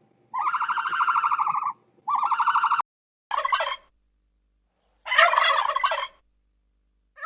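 Animal calls: two drawn-out, pulsing pitched calls, then three shorter, rougher warbling calls, the loudest about five seconds in.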